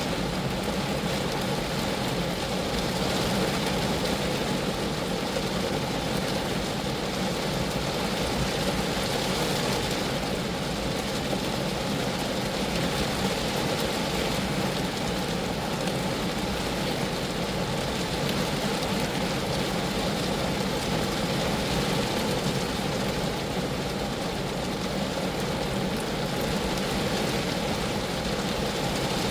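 Steady rain falling on a Geo Metro, a dense, even noise with no single drops standing out.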